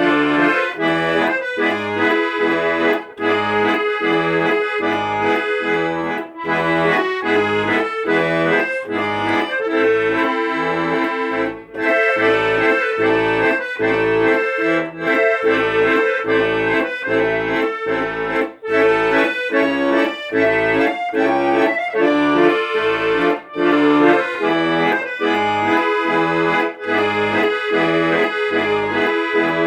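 Accordion music: sustained chords over a steady, even bass beat, with no singing.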